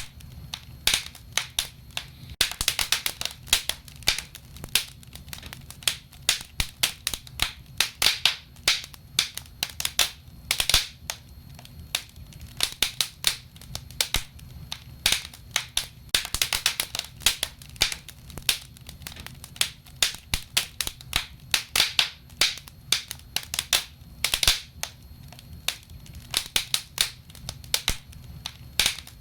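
Wood fire burning in a fireplace: irregular crackling and popping, at times in dense clusters, over a soft steady low rumble of the flames.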